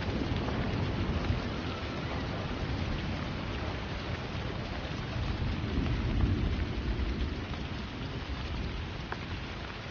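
Steady rain falling, with scattered drops ticking close by. A low rumble of thunder swells about six seconds in and fades away.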